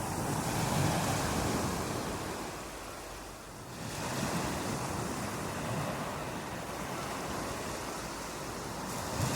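Ocean waves breaking on a beach: one wave crashes about a second in and fades, and another breaks about four seconds in, with steady surf wash between them.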